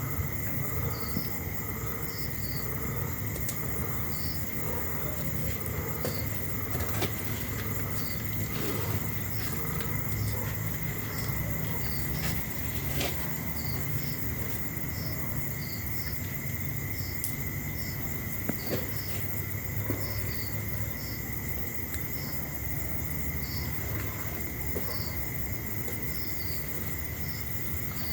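Night-time insects, crickets among them: a continuous high trill with short chirps repeating about once or twice a second, often in pairs. A steady low hum runs underneath.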